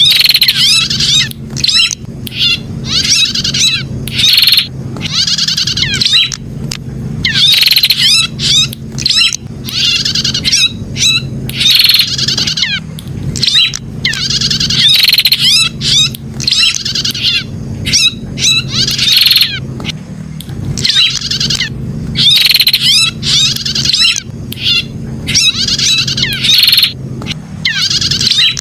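Prenjak (prinia) song: loud, high, rapid chattering phrases, one after another with short gaps, over a steady low hum.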